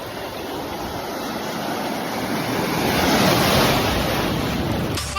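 Ocean surf: a wave building to its loudest about halfway through and then washing back, with wind buffeting the microphone.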